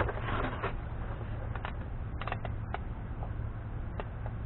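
Light, scattered clicks and rattles of hand tools being handled, most likely the torque wrench being picked up and readied, over a steady low hum.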